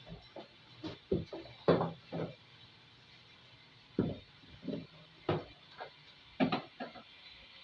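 A string of irregular knocks and clicks as tools and parts of a washing machine are handled during disassembly, with a quiet gap of about a second and a half in the middle.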